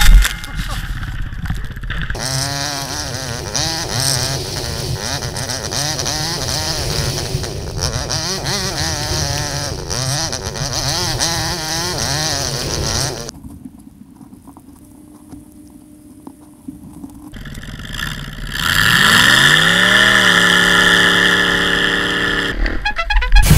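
Yamaha WR450F single-cylinder four-stroke dirt bike engine revving as it is ridden, its pitch rising and falling repeatedly. It drops much quieter for a few seconds just past the middle, then revs up again and holds a high steady pitch near the end.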